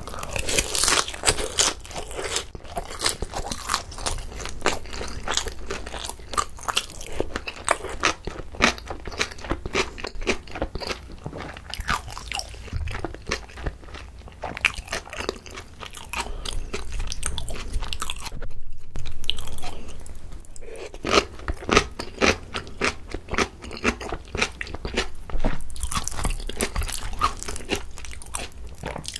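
Close-miked biting and chewing of pan-fried pollock-roe dumplings, with the thin fried wrapper crunching in quick, crisp chews.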